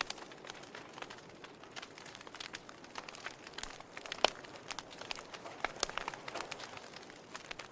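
Wood fire crackling in a fireplace: a faint hiss with irregular sharp pops and snaps, the loudest pop a little past halfway.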